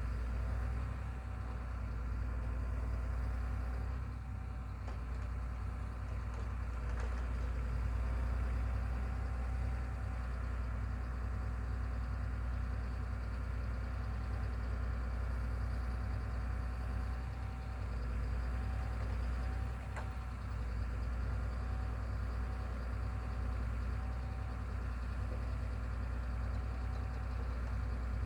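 A machine's engine running steadily at an even speed, a deep drone that neither revs nor stops.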